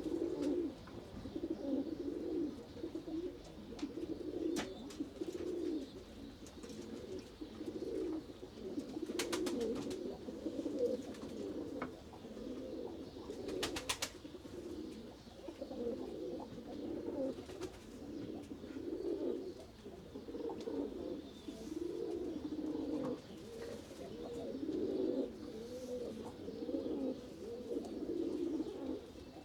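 A group of pigeons cooing continuously, many low overlapping coos. Two short bursts of rapid clicking cut in, about a third of the way through and again a little later.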